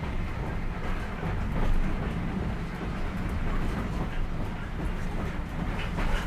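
A train running, a steady rumbling noise without distinct beats.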